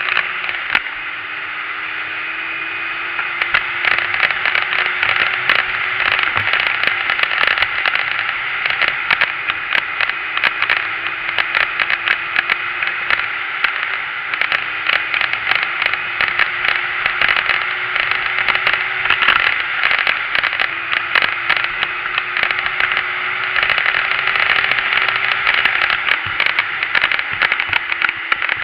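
Dirt bike engine running while being ridden, its note climbing slowly and dropping back several times. Heavy wind noise and crackling on the microphone cover it.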